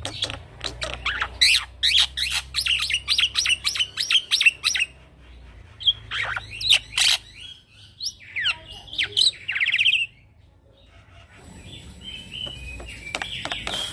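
Young male black-winged myna (jalak putih) singing: a fast run of sharp chirps, then slurred whistles and a buzzy rattle, a short pause, and the rapid chirping starting up again near the end.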